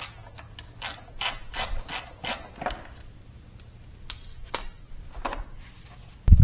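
Ratchet wrench clicking in short strokes, a run of clicks over the first few seconds and then a few scattered ones, while the mini bike's clutch is being unbolted. A loud rumble comes in just at the end.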